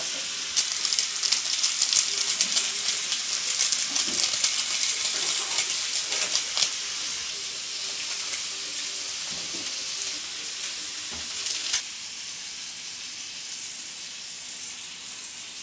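Sliced bitter melon sizzling as it stir-fries in hot oil in a pan, with a spatula scraping and clattering through the stirring in the first half. After a sharp tap about three-quarters of the way through, the sizzle goes on steadier and quieter.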